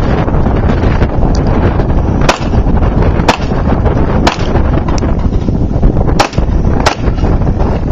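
About six gunshots at roughly one-second intervals, over heavy wind noise buffeting the microphone.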